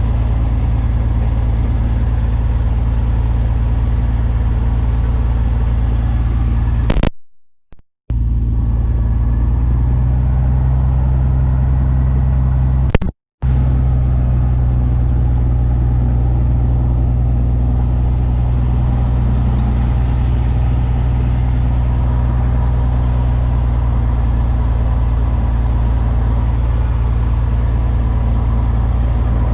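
Cessna Bird Dog light plane's piston engine and propeller droning steadily. The sound cuts out completely twice for a moment, once about a quarter of the way in and again a little later.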